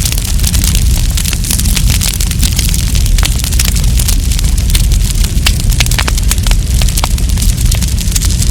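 Wood campfire burning, with dense, irregular crackles and pops over a steady low rumble.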